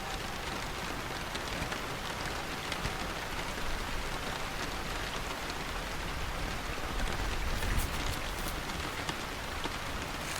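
Steady rainfall, a dense hiss with scattered individual drops ticking sharply. A low rumble swells briefly about seven to eight seconds in.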